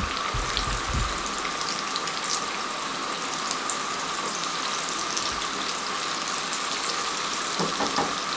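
Suji-besan tikkis shallow-frying in oil in a pan: a steady sizzle with scattered crackling pops.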